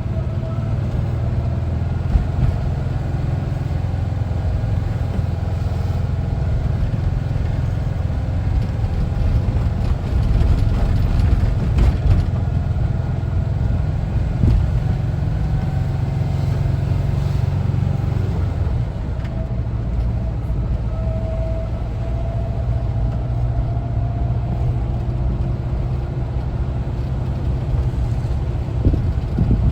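Air-cooled Type 4 flat-four engine of a 1974 Volkswagen Westfalia camper bus running while driving, with a steady low rumble.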